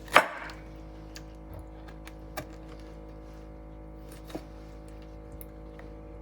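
Soft steady background music, with a sharp knife knock on a cutting board just after the start and a few fainter knocks later as a pineapple is cut into chunks.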